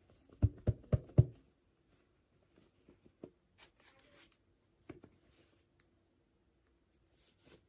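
Hands unpacking small toys: four quick knocks or taps in the first second and a half, then scattered light clicks and short bursts of plastic-like crinkling.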